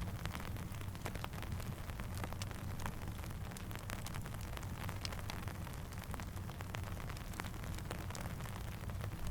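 Steady rain falling, with many sharp scattered ticks over a low, even rumble.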